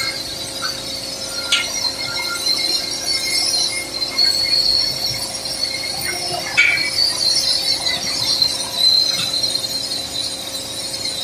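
Simba S7D long-hole drill rig drilling rock with its hydraulic top-hammer rock drill on T38 rods: a steady loud, high-pitched percussive din over a constant hum, with sharp metallic clinks about a second and a half in and again just past the middle.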